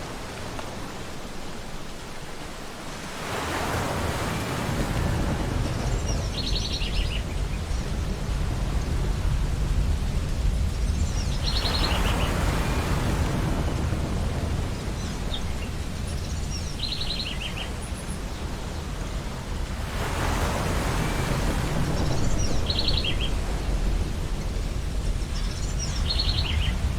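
Ocean surf breaking on a beach, swelling in slow surges about every eight seconds over a steady low rush. Short bird calls, typical of gulls, come over the top five times.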